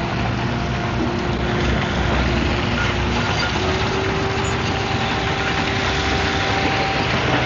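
Komatsu D155AX-7 bulldozer's diesel engine running steadily, with a faint whine holding near one pitch.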